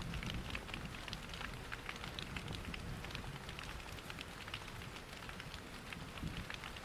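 Steady rain pattering against windows, mixed with the crackle and snap of a wood fire in a fireplace, over a low steady rush of a waterfall. Many small sharp ticks sound throughout.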